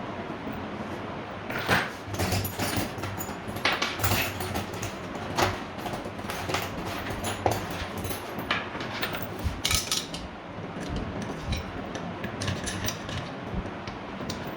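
Irregular metallic clinks and rattles of metal parts being handled, over a steady hiss. The clinks start about a second and a half in and die away near the end.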